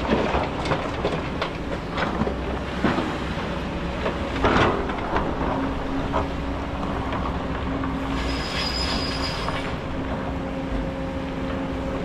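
Kobelco hydraulic excavator working in sand: the engine runs with a low rumble under repeated metallic clanks and knocks, and a steady whine starts about halfway through. A brief high-pitched squeal comes about two-thirds of the way in.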